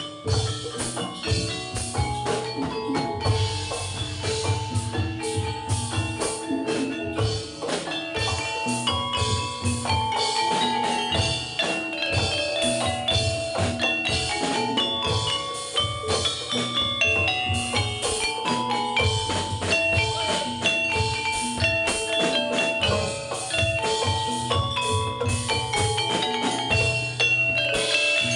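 Javanese gamelan playing a jathilan piece: saron metallophones strike a fast stepping melody of ringing metal notes over steady drumming.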